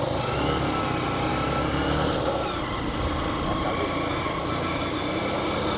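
Small 125 cc motorcycle engine running steadily at low road speed. It is heard through the rider's helmet microphone along with a steady rush of riding noise.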